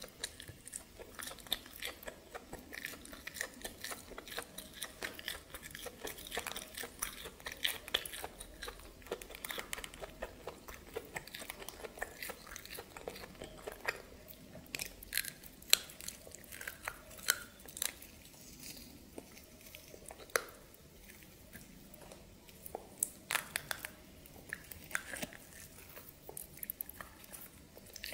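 Close-miked chewing and biting of steamed snake, with many small wet clicks and crunchy snaps as the meat is bitten and pulled off the bones; a few louder snaps stand out in the middle and later part.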